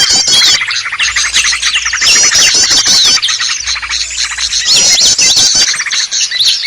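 A busy mixed chorus of many small birds chirping, squeaking and trilling at once, loud and without pause, with rapid repeated trills high up recurring every second or two. It is a bird-lure (pikat) recording made to draw small wild birds in.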